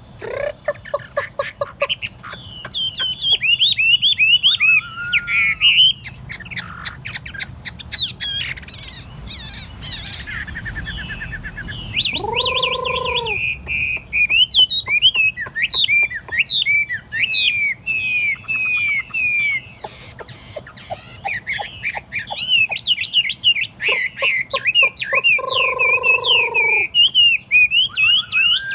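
Chinese hwamei (họa mi) singing a long, varied song of quick whistled and warbled phrases. Twice, about twelve seconds in and again near the end, it breaks into a longer, lower drawn-out note.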